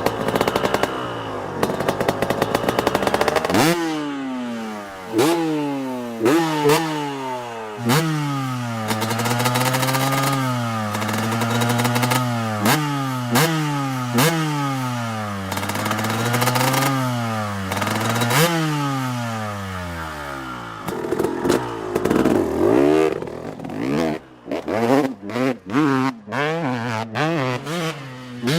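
Two-stroke dirt bike engine revving, its pitch climbing and dropping again and again. Near the end it turns into a run of short, choppy throttle blips.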